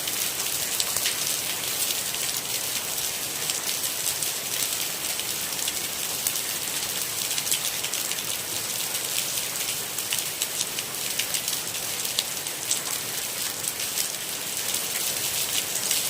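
Steady rain, a dense patter of countless individual drops over an even hiss.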